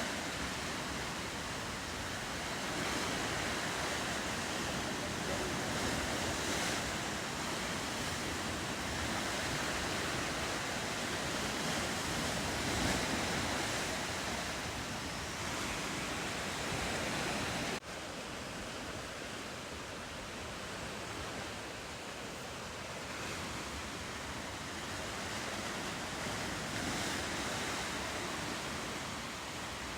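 Ocean surf washing steadily against the coast, with wind on the microphone. The sound drops suddenly a little quieter about two-thirds of the way through.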